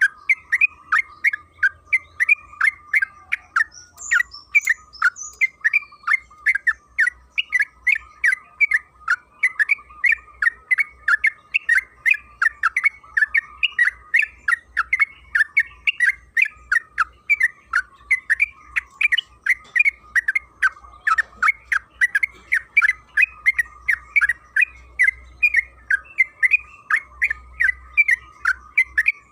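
Yellow-vented bulbul (trucukan) calling in a long, unbroken run of short chattering notes, about three a second, over a faint steady tone. A brief higher twitter comes in around four seconds.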